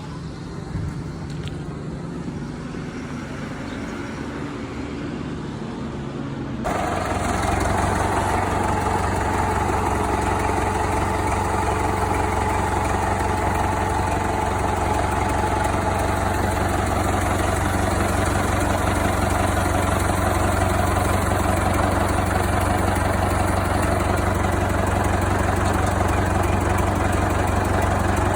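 Old tractor engine, in use since 1960, running steadily and smoothly. About six and a half seconds in it abruptly becomes louder and fuller, then holds an even running note.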